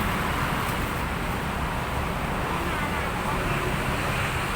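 Steady street noise of road traffic, with indistinct voices in the background.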